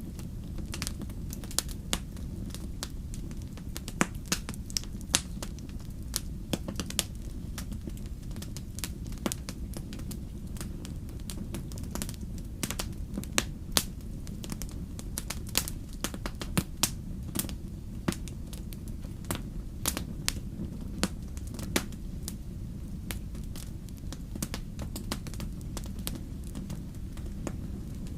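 Wood fire in a fireplace crackling, with irregular sharp pops and snaps, some much louder than others, over a steady low rumble.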